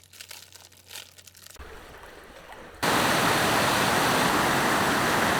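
A quiet stretch with a few faint clicks, then a loud, steady rush of flowing water that cuts in suddenly about three seconds in.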